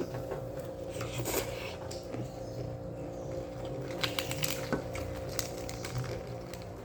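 Eating noises: scattered irregular clicks and smacks, thickest about a second in and again around four to five seconds, over a steady hum.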